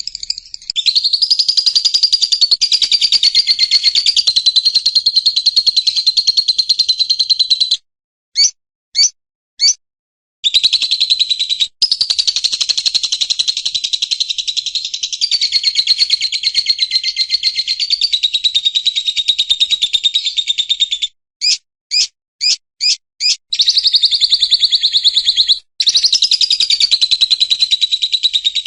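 White-rumped shama (murai hutan) song: long, very rapid trills that run on for several seconds at a time. Twice they break off, about eight seconds in and again past twenty seconds, into a quick run of short separate notes.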